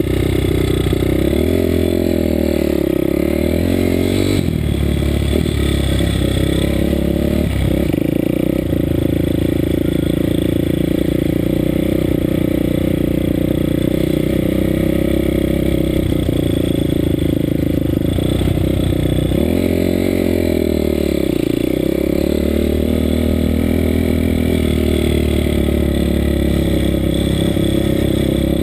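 Bucci Moto pitbike's 190 cc Daytona Anima single-cylinder four-stroke engine running hard at high revs. The pitch dips and climbs back near the start and again about two-thirds through, as it slows and accelerates out of corners.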